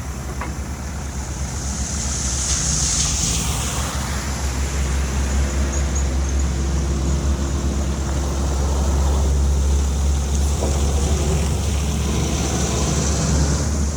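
A heavy engine running steadily with a deep, even hum, with swells of high hiss about two to four seconds in and again near the end.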